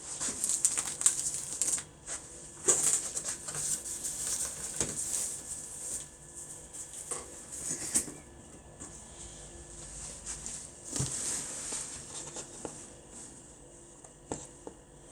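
Paper and packing wadding rustling and crinkling in irregular bursts, with a few light knocks, as car parts are handled and packed into a cardboard box. The sound is busier in the first half and thins out later.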